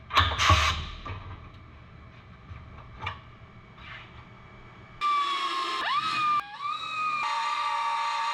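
A power tool runs with a high steady whine through the last three seconds, broken by abrupt edits, its pitch dipping once and coming back as it bites into the metal. Before that there is a short loud scraping burst and a few light clicks.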